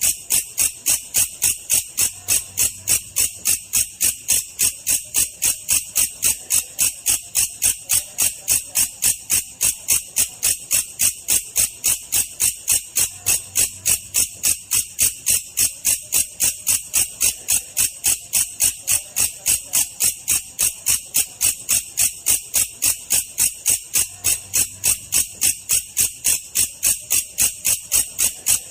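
Belalang kecek katydid calling in a steady, even rhythm of sharp, high-pitched chirps, about three a second, slowed down for use as a training recording for songbirds.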